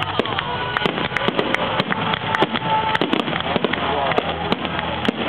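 Fireworks finale: many rapid, overlapping bangs and crackles, several a second.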